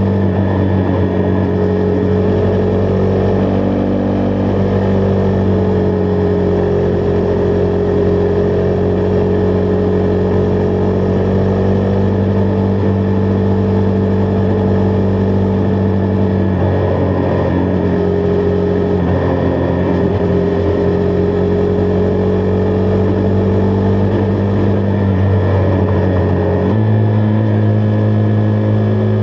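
Husqvarna Vitpilen 401's single-cylinder engine running steadily at cruising revs while riding, with wind noise. The engine note steps up in pitch near the end.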